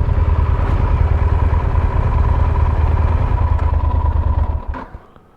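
Motorcycle engine idling steadily, its sound dropping away sharply near the end.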